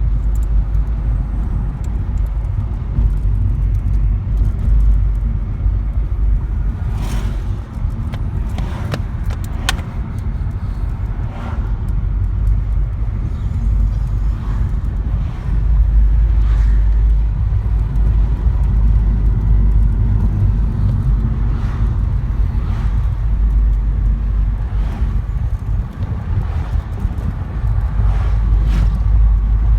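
A car being driven: a steady low rumble of road and engine noise, with a few brief clicks along the way.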